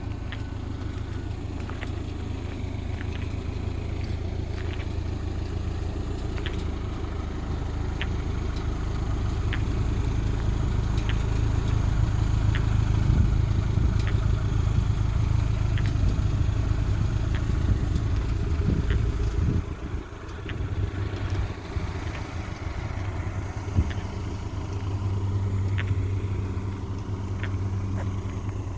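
Vehicle engine idling steadily with a low hum that grows louder in the middle and drops briefly about twenty seconds in. Faint sharp ticks come about every second or so.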